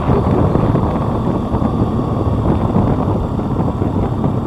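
Steady wind rumble on the microphone over a motorbike running while riding.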